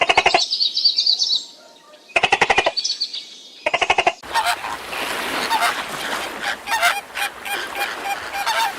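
Birds calling: three short, rapid rattling bursts of calls, then a dense, continuous chorus of calls from about four seconds in.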